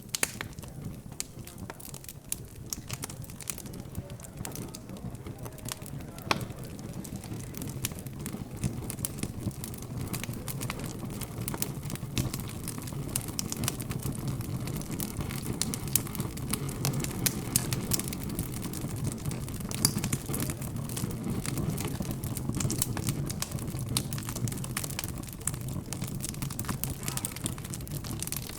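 Fire crackling in a fireplace, with many small sharp pops, over a low, steady hum of indistinct background chatter.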